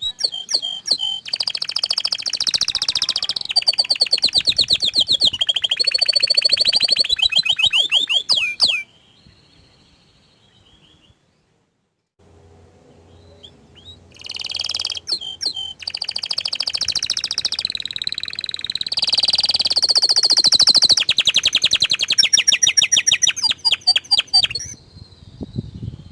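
Orange frost canary singing in two long bouts of rapid trills and rolls, each about ten seconds long, with a few seconds' pause between them.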